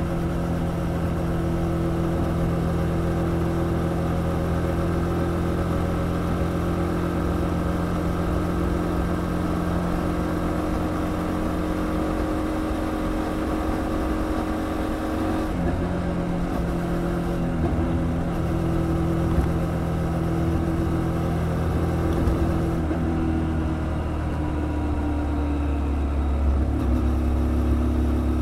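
Kymco Quannon 125 motorcycle's single-cylinder 125 cc engine running at cruising speed, its note holding steady and then stepping to a different pitch a few times, around the middle and again near the end.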